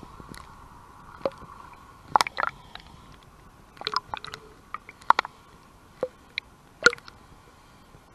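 Canoe paddle dipping into lake water: short, irregular splashes and drips, a few each second or two, over a faint steady hum.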